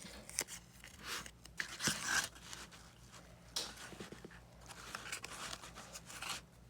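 Cardboard and tape being handled: irregular short bursts of rustling, scraping and tearing.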